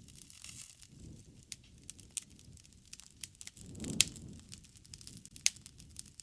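Campfire crackling: scattered sharp pops and snaps over a low rumble of burning wood, with the loudest pop about four seconds in and another sharp one shortly before the end.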